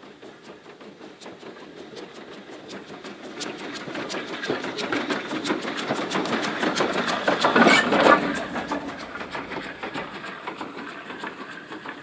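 Steam-hauled train passing close by, with a fast, even clatter of wheels over the rail joints. It grows louder to a peak about two-thirds of the way through, then fades away.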